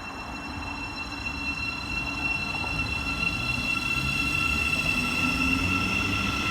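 Passenger train approaching, growing steadily louder: a low rumble under a steady high-pitched whine or squeal.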